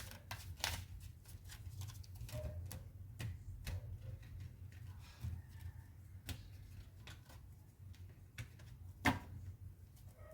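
Tarot cards being shuffled and handled, an irregular run of light clicks and flicks. A low steady hum runs underneath.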